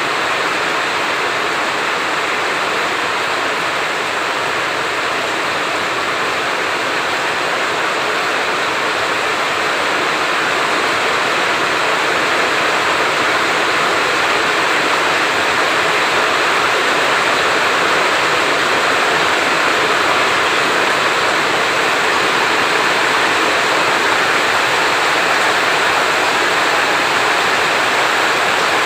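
Heavy rain falling, a steady, even hiss with no thunder claps, growing slightly louder about a third of the way in.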